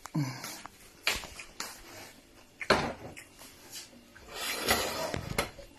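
Spoon and dishes knocking and scraping as soup is served onto a plate: sharp knocks about a second in and again near three seconds, then a longer stretch of scraping near the end.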